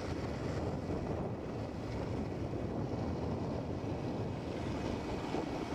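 TCDD passenger train running at speed, heard from an open coach window: a steady rush of wind on the microphone over the low rumble of the train.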